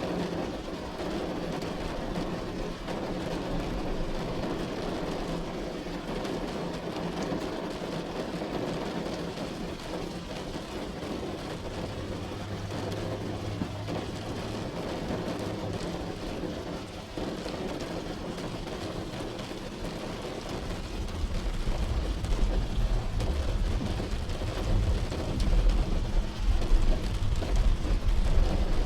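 Steady rain falling on a hard surface, with a deep low rumble that grows louder about two-thirds of the way through.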